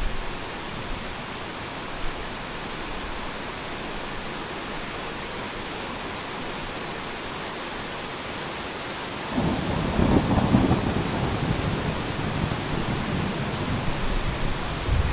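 Heavy rain falling steadily; about nine seconds in, a low rolling rumble of thunder sets in and carries on.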